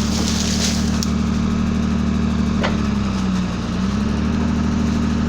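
Mercedes-Benz 1313 truck's six-cylinder diesel engine running steadily while it powers the truck-mounted hydraulic crane. Its pitch sags briefly about three seconds in and recovers, with a single sharp click just before the sag.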